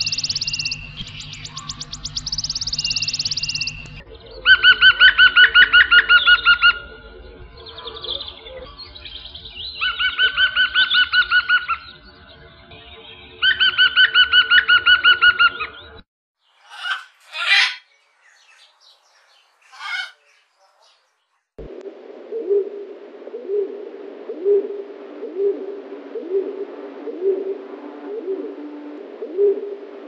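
A sequence of wild bird calls: high trilled calls, then rapid pulsing trills in three bursts about two seconds each, then a few short, sharp calls, and from about two-thirds in a lower call repeated about once a second.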